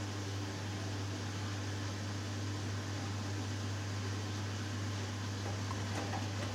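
Hoover Dynamic Next washing machine in its final spin, the drum and motor running with a steady low hum and whoosh. A few light ticks come near the end.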